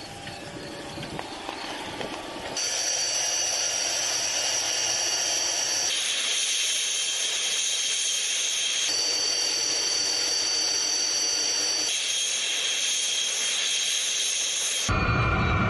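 Twin turbojet engines of a Su-25 attack jet running: a steady rush of air noise with several high, steady whining tones. The sound changes abruptly about every three seconds as short clips cut one to the next.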